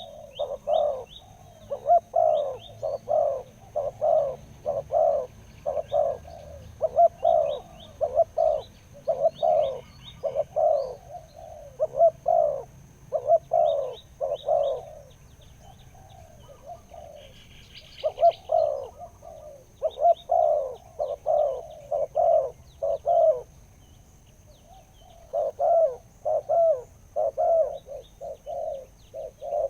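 Spotted dove cooing in long runs of deep, repeated notes, about two a second, broken by two short pauses. Fainter chirps of small birds come in and out higher up.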